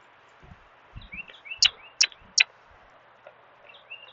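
Small birds chirping in the background with short, rising notes. About halfway through come three sharp clicks in quick succession, with a few faint low thuds around them.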